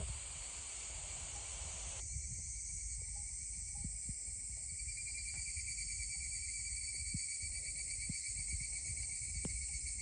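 Wood fire crackling with scattered sharp pops, over a steady high chirring of insects.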